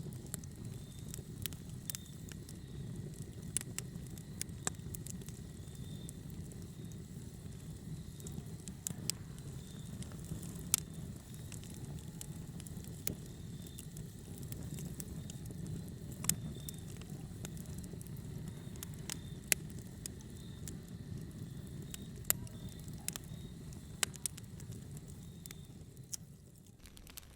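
Wood fire burning in a fireplace: a steady low rumble of flames with irregular sharp crackles and pops. The rumble drops away just before the end.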